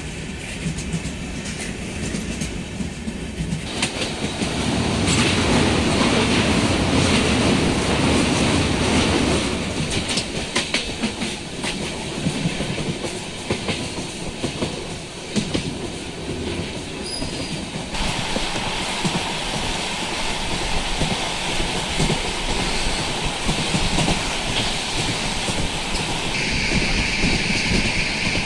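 Train running along the track heard from on board, its wheels clattering over the rail joints in a continuous rumble with many sharp clicks; it grows louder about four seconds in.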